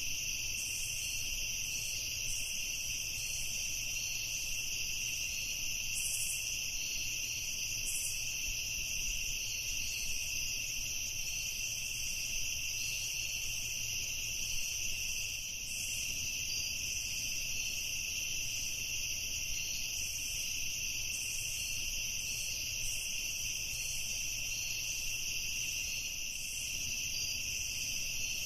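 Insects, likely crickets, chirping in a steady high-pitched evening chorus that goes on without a break.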